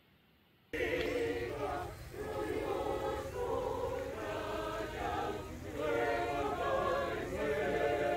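A group of voices singing together in a choir-like chant, starting suddenly a little under a second in after near silence, over a low background rumble.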